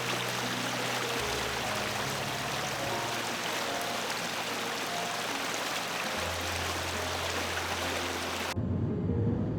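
Steady rush of a stream's flowing water, with soft background music notes under it. About a second before the end it cuts abruptly to a low rumble.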